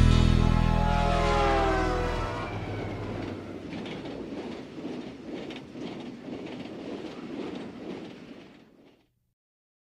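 The song's last chord rings out and fades over the first few seconds. Then comes the sound of a train running on rails, a rhythmic clickety-clack of about two clicks a second, which fades out near the end.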